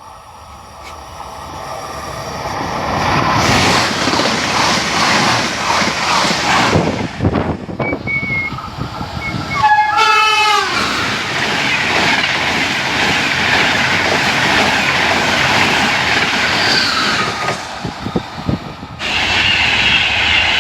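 A train passing: a loud rushing, rumbling noise that builds over the first few seconds and then holds. Its horn sounds briefly about ten seconds in.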